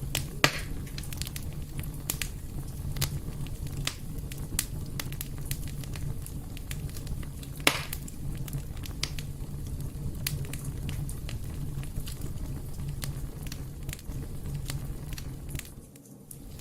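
Wood fire burning in a fireplace, crackling steadily over a low rumble of flame, with scattered small snaps and two louder pops, one about half a second in and one about halfway through.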